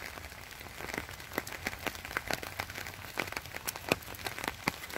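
Rain falling, with scattered sharp drops tapping at an irregular pace, several a second.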